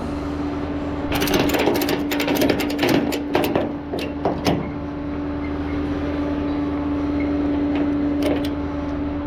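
Rollback tow truck's engine running steadily with a constant whine. A quick run of clicks and knocks comes in the first few seconds, a few more near the end.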